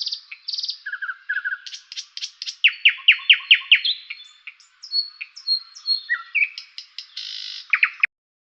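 Bird song: a quick run of varied chirps, short trills and falling whistles, with a brief buzzy note near the end, stopping abruptly just before the end.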